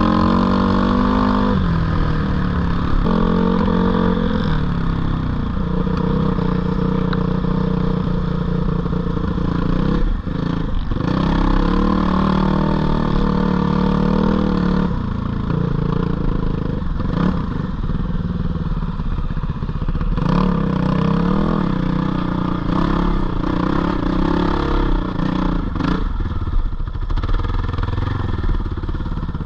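Four-stroke dirt bike engine (GPX 450R) running under load on a trail, its pitch rising and falling as the rider works the throttle, with a brief drop in engine pitch about ten seconds in.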